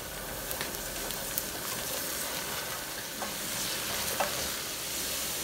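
Diced onion and garlic sizzling in oil in a pot as they are stirred with a spatula: a steady sizzle with a few light clicks.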